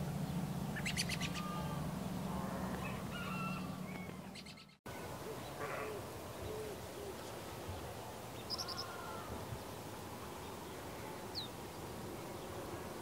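Birds chirping and calling, short repeated calls, over a low steady hum. About five seconds in the sound drops out for an instant, and after that the birdsong goes on without the hum.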